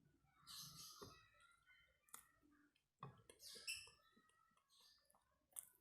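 Close-miked mouth sounds of someone eating brem, a crumbly fermented rice cake: soft, wet mouth clicks and smacks with a few short hissy bursts, at low level.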